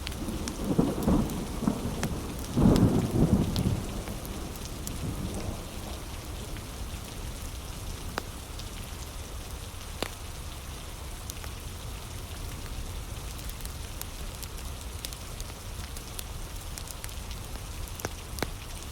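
Steady heavy rain with a rumble of thunder in the first few seconds, and scattered sharp crackles and pops from a wood fire.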